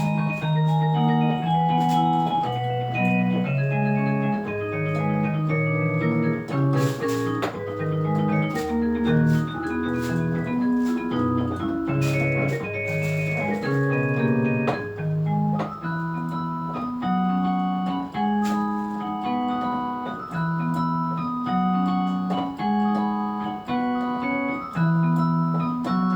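Instrumental keyboard music with an organ-like electronic keyboard tone, playing a busy melody over a moving bass line of held notes.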